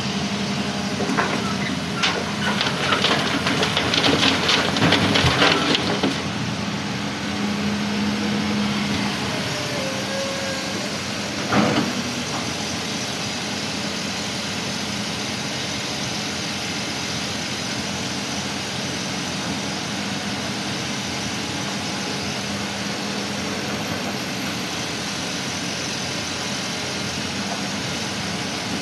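Heavy diesel engine running steadily, with a dense burst of rattling clatter from about two to six seconds in and a single knock near twelve seconds, as of loose coral stone dropping into a dump truck's steel bed during loading.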